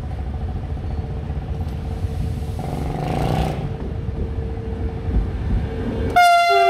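Intercity train approaching and running past a level crossing, a steady rumble with a steady tone over it and a hiss about halfway in. Near the end the train's horn starts, loud, several tones at once.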